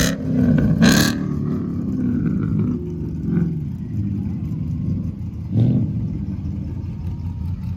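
Car engine running at a steady idle, with short blips in level about a second in and again near six seconds in.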